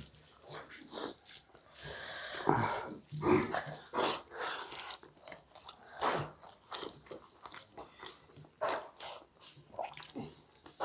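Close-miked eating by hand: chewing and lip-smacking on mouthfuls of rice and cabbage curry, with fingers mixing rice on steel plates, in short irregular smacks and clicks.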